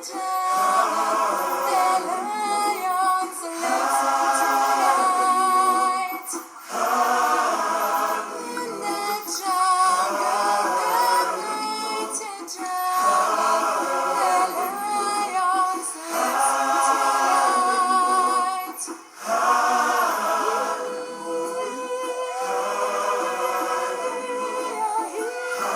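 Background music: a choir of voices singing in harmony, with little or no accompaniment.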